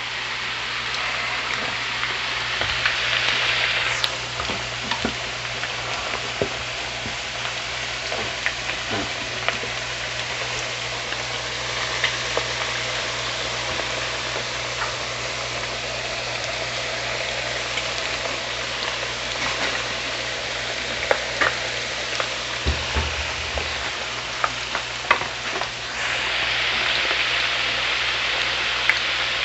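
Freshly cut raw potato fries, just added to hot oil in a frying pan, frying with a steady vigorous sizzle and scattered sharp pops and clicks. The sizzle swells louder for a couple of seconds near the start and again near the end.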